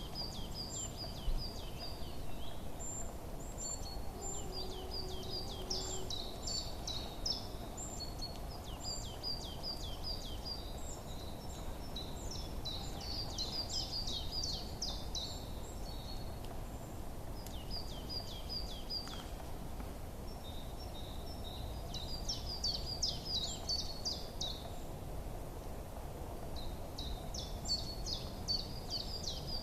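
Small songbirds chirping in quick runs of short, high, falling notes that repeat in rapid trills, pausing briefly now and then, over a steady low background hum.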